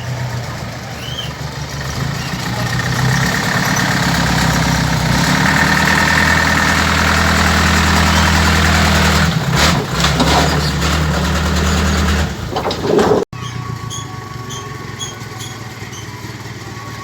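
An engine running steadily. It grows louder over the first few seconds, then runs quieter after a sudden break about thirteen seconds in.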